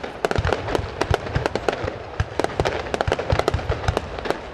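Aerial fireworks bursting overhead in a rapid barrage, several sharp bangs a second over a continuous haze of crackle and echo.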